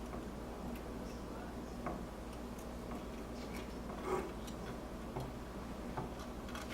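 Scattered small clicks and taps of desoldering work on a refrigerator control board, as a soldering iron and solder wick work the relay's pins, over a steady low hum. A slightly louder knock comes about four seconds in.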